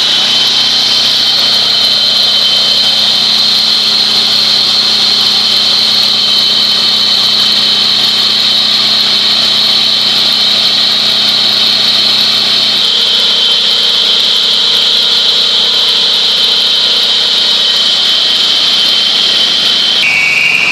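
Husqvarna FS413 petrol floor saw running at speed, its engine and spinning blade giving a loud, steady high whine. Near the end the whine drops in pitch.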